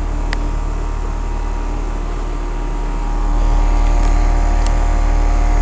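Carrier central air-conditioner condensing units running: a steady compressor hum with the condenser fans blowing. The low rumble grows louder a little past halfway.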